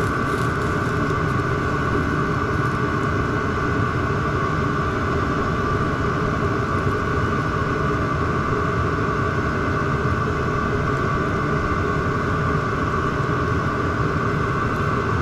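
VEVOR diesel air heater running steadily, a constant high fan whine over a dense low rushing noise.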